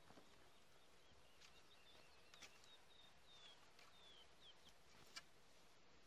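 Faint bird song: a run of short high chirps and quick falling whistles. Twice, about two and a half seconds in and again near the end, a hoe knocks sharply into the dry ground.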